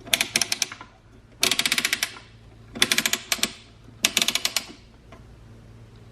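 Four short runs of rapid, sharp mechanical clicking, each lasting under a second with brief pauses between.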